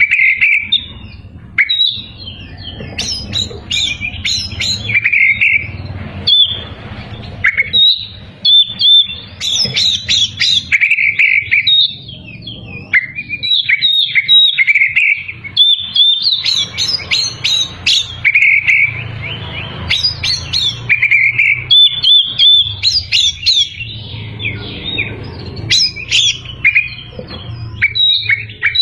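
Oriental magpie-robin (kacer) in full, continuous song: a rapid, varied run of whistles, chirps and trills in short phrases with brief pauses between them. There is a faint low hum underneath.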